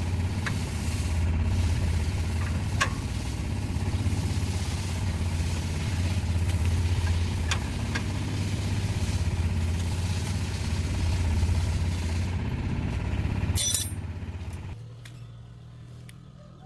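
Restored tractor engine running steadily with a low tone and a few light ticks, then a sharp click about fourteen seconds in, after which the engine dies away.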